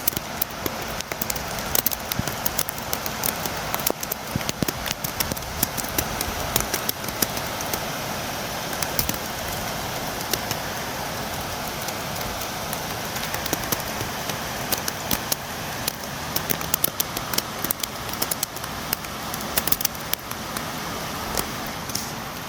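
Steady rain, a constant hiss with many sharp, irregular drops tapping against a window pane.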